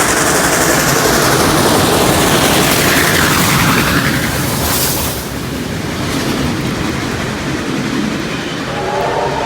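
Train passing at close range, hauled by steam locomotive 3526 with diesel 4501: loud rushing and rumbling of wheels on rail that eases slightly after about five seconds. Near the end a held pitched tone of several notes sounding together comes in.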